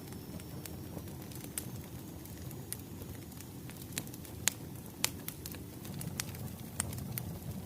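Wood fire crackling: a steady low rumble of burning logs with irregular sharp pops, the loudest about halfway through.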